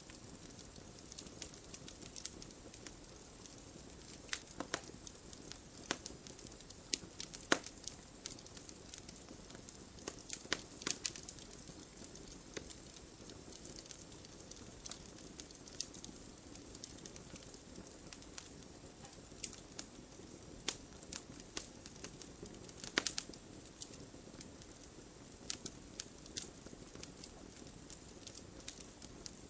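Wood fire crackling: a steady soft hiss with sharp, irregular pops and snaps, a few louder ones standing out.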